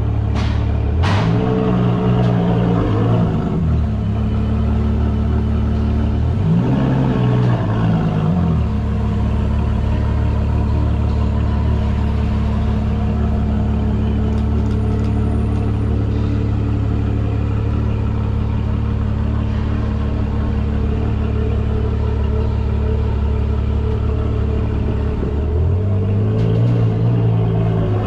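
Ferrari 812 Competizione's naturally aspirated 6.5-litre V12 running at idle inside an enclosed car transporter, the engine speed rising and falling briefly about a second in, again around seven seconds in, and once more near the end.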